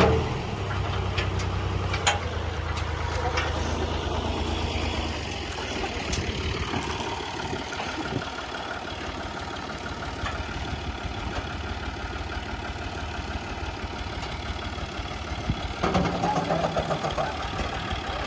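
Diesel engine of a Clayson 8080 combine harvester running steadily, with a low hum that fades about five seconds in, and a brief louder stretch near the end.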